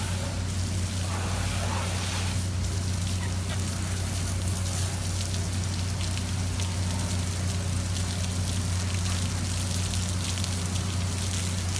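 Steady rush of running water over a constant low hum.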